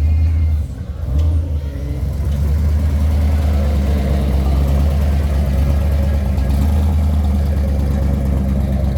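Car engine running at a steady low idle close by, dipping briefly under a second in and then holding steady.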